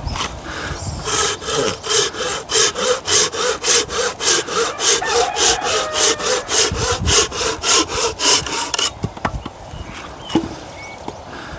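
Hand saw cutting through a firewood log, with fast, even back-and-forth strokes of about three to four a second that stop about nine seconds in.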